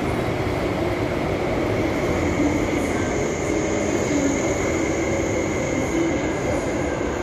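MTR West Rail Line IKK electric multiple unit running through a station platform: a steady, continuous train rumble with a thin high whine that stands out from about two seconds in.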